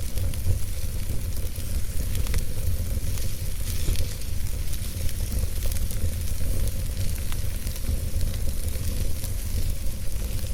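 Wood fire in a fireplace, logs crackling with frequent small, irregular pops over a steady low rumble.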